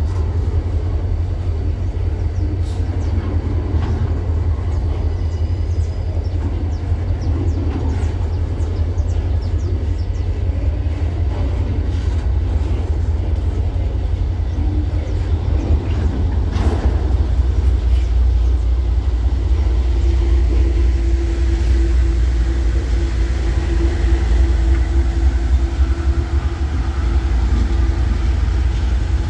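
Train rolling past on the rails, a steady low rumble with a few sharp clanks. From about two-thirds of the way through, a steady droning tone joins in.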